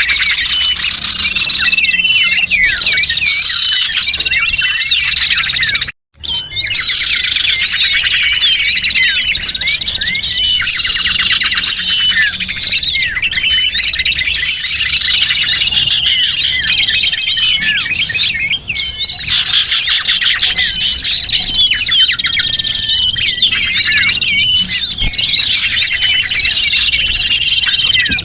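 Dense chorus of small birds chirping and twittering without a break, a bird-lure recording made to draw in small birds. The sound cuts out completely for a moment about six seconds in, then resumes.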